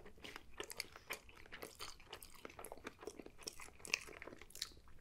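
A person biting into and chewing a breakfast burger built on a lightly toasted everything bagel, with egg, bacon, salmon and kimchi: a run of many small, quiet clicks and crunches of eating.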